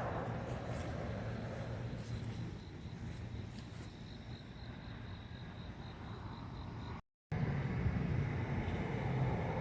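Outdoor background of a steady low rumble, like distant traffic, with a faint high chirping that pulses about three times a second for a few seconds in the middle. The sound cuts out completely for a moment near the end.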